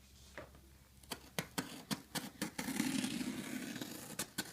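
A shipping package being opened by hand: a few sharp clicks and taps, then a couple of seconds of rough tearing and scraping of the packaging.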